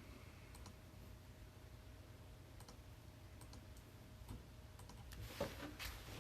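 Faint, scattered small clicks and taps, growing into a louder cluster of clicks near the end.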